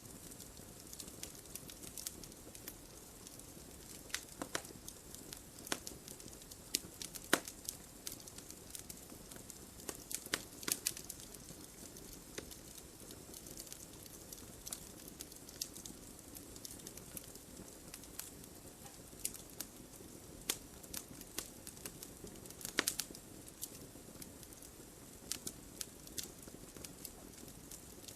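Wood fire in a fireplace crackling: irregular sharp pops and snaps over a steady low hiss, with a few louder pops scattered through.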